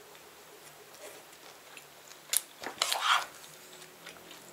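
Sounds of eating at a table: a single sharp clink a little over two seconds in, then a short burst of clicking and scraping around three seconds, with quiet chewing between.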